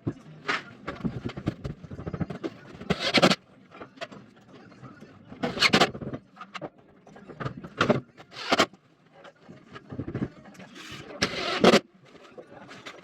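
Pieces of rigid foam insulation board being handled and pushed into place, scraping and rubbing in several short loud bursts with quieter knocks and rustling between them.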